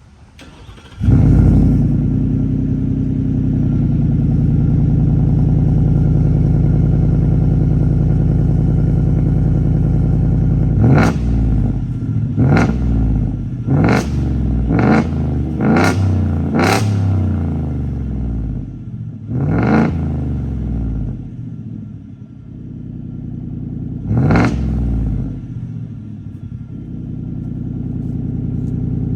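2022 Ford F-150's 5.0 L Coyote V8 with the muffler and resonator deleted, warm-started about a second in and settling into a steady idle. It is then blipped in a string of about eight quick revs, most close together in the middle and a couple spaced out later, dropping back to idle after each.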